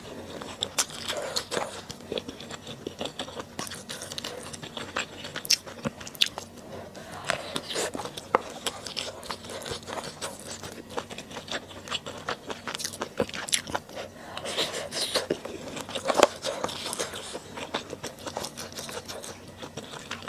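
Close-miked eating sounds: a person chewing and biting food, with many small irregular wet mouth clicks.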